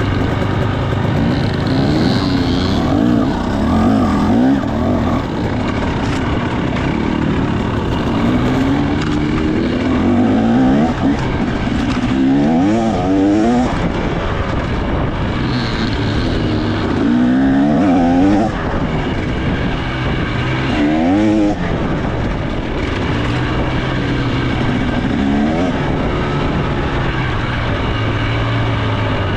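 2025 KTM 300 XC's two-stroke engine being ridden, revving up and down again and again with the throttle, with several sharp climbs in pitch.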